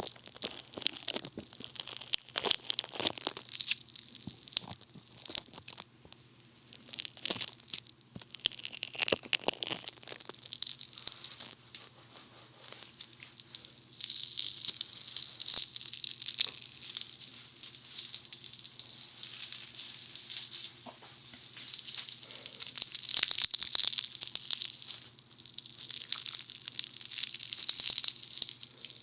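Funny Foam squished and rubbed against the ears of a binaural dummy-head microphone, giving close, dense crackling. From about halfway, stretches of high fizzing hiss come in.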